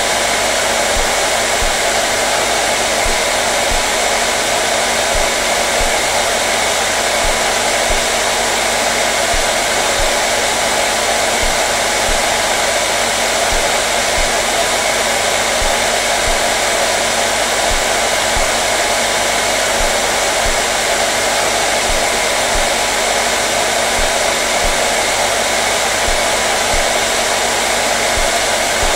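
Hair dryer running steadily: a constant, even rushing of air with a steady motor hum underneath, unchanging throughout.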